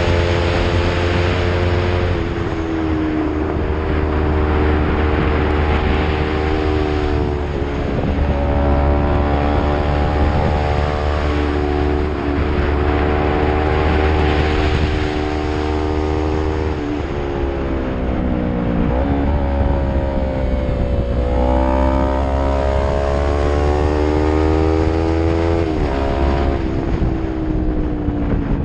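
Yamaha MT-03 motorcycle engine through an aftermarket Arrow full-system exhaust, running under load on a climb. The exhaust note holds steady, then drops and climbs again several times as the rider changes gear and works the throttle.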